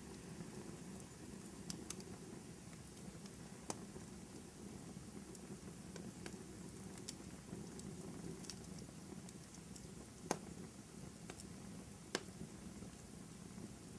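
Wood fire burning in a fireplace: a steady low rush of flame with scattered sharp crackles and pops, the loudest about ten and twelve seconds in.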